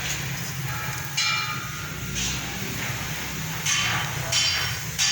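Several sharp metal-on-metal clinks, each ringing briefly, about one a second, over the steady low hum of running machinery in a lathe shop where stainless steel plate is being worked.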